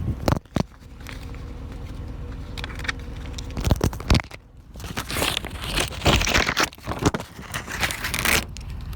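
Vinyl sticker and its backing paper being handled and peeled: crinkling and tearing rustles with a few sharp clicks, busiest in the second half.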